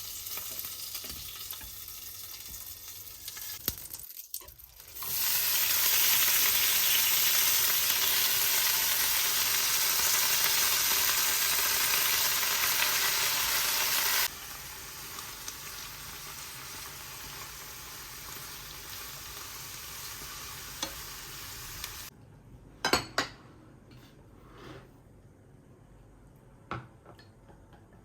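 A steady hiss that jumps louder about five seconds in, holds for about nine seconds, then drops abruptly. It stops near the end, leaving a few light clicks and taps.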